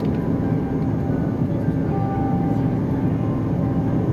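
Airbus A330 cabin noise: a steady, loud engine and airflow drone with a low hum running through it.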